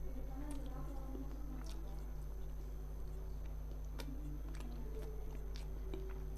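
A person chewing a mouthful of fish and rice, with scattered wet mouth clicks and smacks, over a steady low hum.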